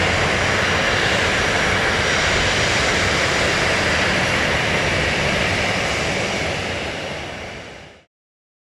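Steady rushing jet-engine noise of a Boeing 777-300 airliner, fading out near the end into silence.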